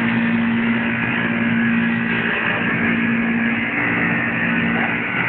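Petra packaged air-conditioning unit running: a steady machine hum over even fan-like noise, the hum weakening slightly near the end.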